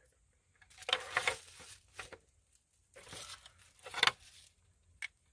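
Rustling and small knocks of plastic wiring-harness connectors and loose wires being handled, in two bursts about a second long each, the second ending in a sharper click.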